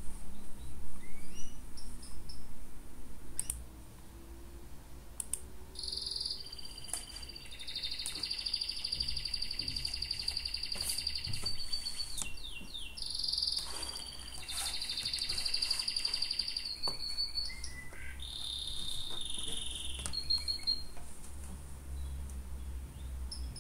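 A bird singing: long high trills in several bouts, with short chirps and quick falling notes between them, over a low steady hum.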